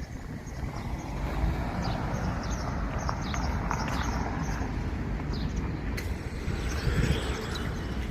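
Outdoor ambience on a walk: a steady low rumble with many short, high chirps and ticks scattered through it.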